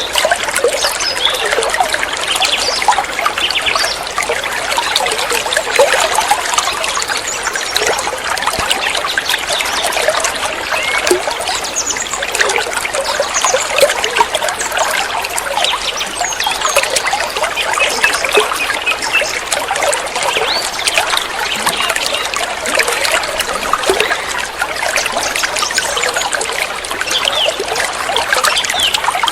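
Water trickling and splashing steadily, a continuous run of small splashes with no letup.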